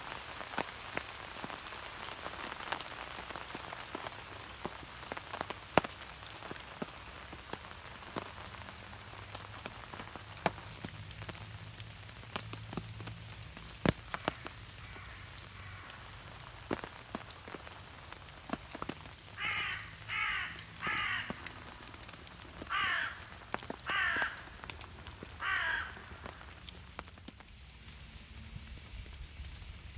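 Rain pattering with scattered heavy drips falling throughout. About two-thirds of the way in, a crow gives six harsh caws in two runs of three.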